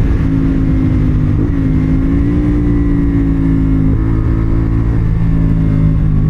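CFMoto 450SR parallel-twin engine running while riding, holding a nearly steady pitch at light throttle. There are small changes in engine note about one and a half and four seconds in.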